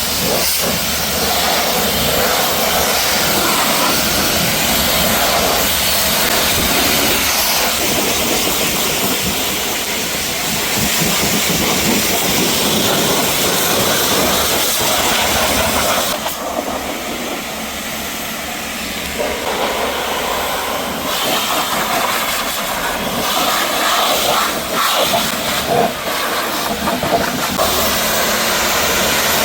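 Pressure washer spraying a car: a steady, loud hiss of high-pressure water, which eases for a few seconds just past halfway before picking up again.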